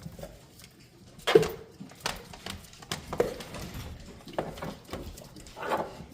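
Mastiff puppy chewing and gnawing a raw pig leg: irregular crunches and wet clicks of teeth on bone and meat, the loudest about a second and a half in.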